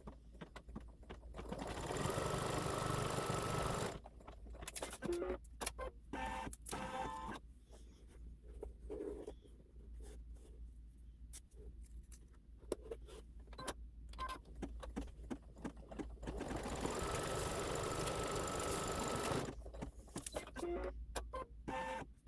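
Embroidery machine stitching in two runs of a few seconds each, a steady mechanical whirr with a high tone, the first about two seconds in and the second near the end. Between the runs come scattered clicks and knocks as the fabric and hoop are handled.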